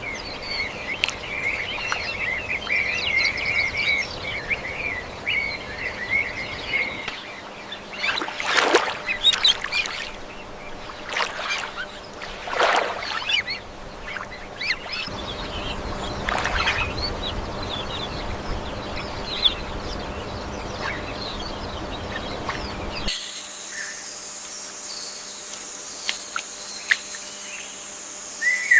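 Tropical forest ambience of wild birds calling: a run of fast chattering calls, then several loud separate calls. From about 23 s a steady high-pitched insect drone takes over.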